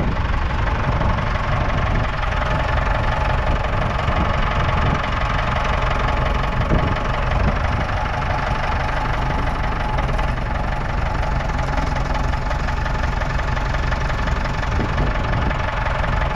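1977 Ford 6600 tractor's 4.2-litre four-cylinder diesel engine running steadily, a loud diesel clatter with no change in speed.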